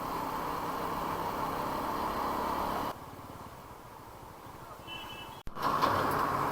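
Motorcycle on the move: steady wind rush with the engine running underneath. It drops quieter about three seconds in, then comes back louder after a brief break near the end.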